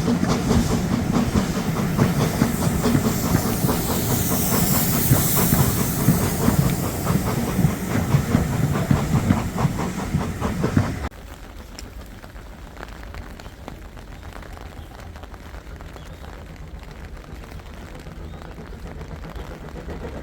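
Steam train running close by, a loud rhythmic clatter with hiss of steam. About halfway through it cuts off suddenly to a much quieter low rumble.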